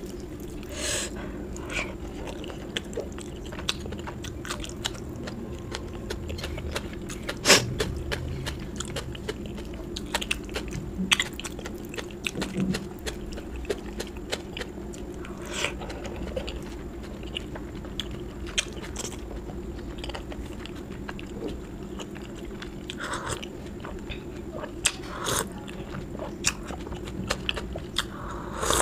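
A person chewing and biting food close to the microphone: wet chewing with sharp crunches scattered throughout, the loudest about seven and a half seconds in, over a steady low hum.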